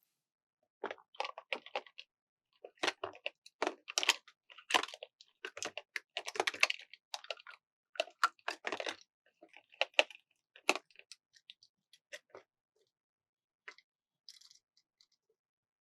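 Hands handling a plastic toy and its packaging: irregular crackly clicks and crinkles, dense through most of the stretch and thinning out to a few near the end.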